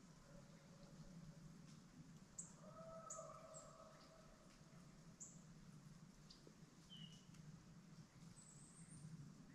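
Near silence, with faint scattered high bird chirps. About two and a half seconds in there is a faint, drawn-out animal call lasting a second or two.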